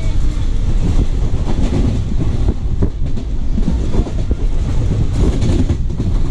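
Express passenger train running at speed: a steady low rumble of the coaches with scattered clicks and clatter from the wheels over rail joints.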